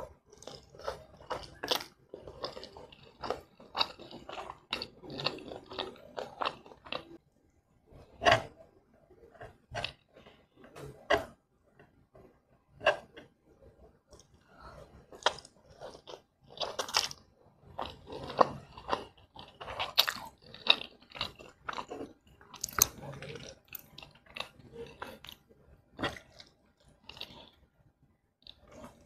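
Close-miked eating of fried instant noodles: chewing with wet smacks and many sharp mouth clicks, coming in clusters with short pauses between mouthfuls.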